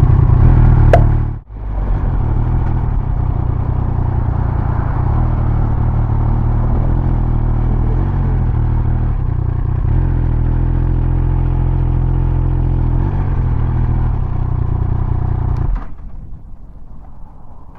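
Triumph Speed Triple 1200 RS's three-cylinder engine running steadily, with a brief sharp drop about a second and a half in. The engine sound cuts off abruptly near the end.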